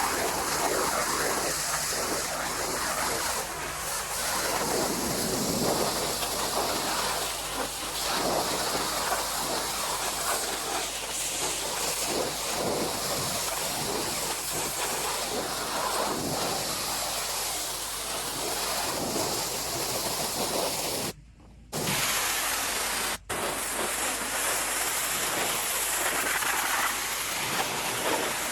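Pressure washer spray blasting against wood, a steady hissing rush of water that cuts out briefly twice about two-thirds of the way through.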